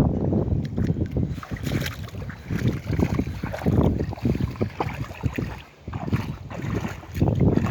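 Gusty wind rumbling on the microphone, surging and easing irregularly, with a brief lull near the end.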